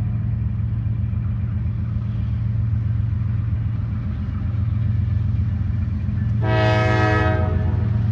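Diesel freight locomotives passing with a steady low rumble; about six seconds in, a locomotive horn blows one chord of a little over a second.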